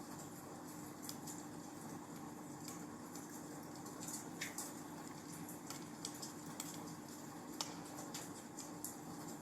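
Wood fire in a fireplace crackling: irregular small pops and snaps over a steady soft hiss, with one sharper pop about three-quarters of the way through.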